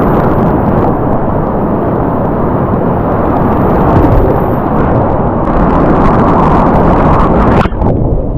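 Loud, steady rush of whitewater rapids, a dense roar of moving water and splashing, cut by a sharp break near the end after which it sounds duller.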